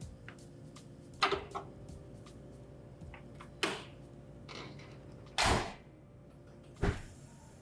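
A few sharp clicks and knocks, a longer and louder noise about five and a half seconds in, then a heavy thump near the end, door-like handling sounds just before a car's engine is started.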